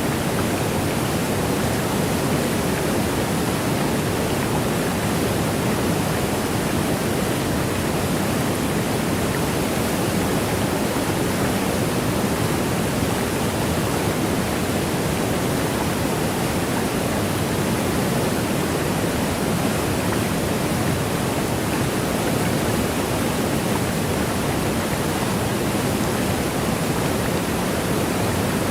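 Waterfall: water rushing down in a steady, unbroken hiss, heaviest in the low and middle range, with no splashes or changes standing out.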